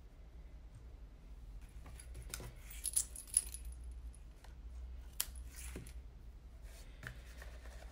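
Paper and craft items handled on a tabletop: rustling and light clicks, with a few sharper clicks about three and five seconds in.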